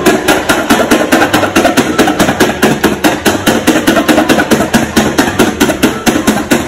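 Rapid, evenly spaced knocking, about six strikes a second, loud and steady throughout.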